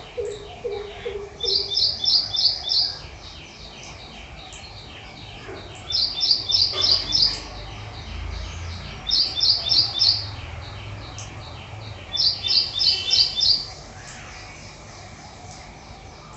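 Small birds chirping: phrases of five or six quick, high chirps, repeated four times, over fainter chirping in between.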